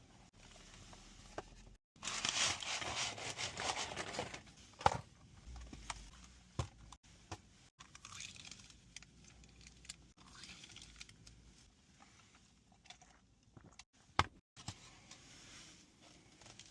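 Handling noise of packaging: a couple of seconds of crinkling and rustling about two seconds in, then scattered sharp clicks and small knocks.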